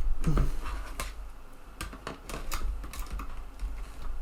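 Irregular light clicks and taps as the small metal and plastic parts of a TEAC FD-235F 3.5-inch floppy drive are handled and bent, over a steady low hum.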